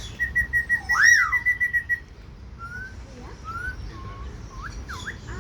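A bird whistling: a fast run of short, even notes, with a loud whistle that rises and falls about a second in. Then a string of short rising and falling whistled notes.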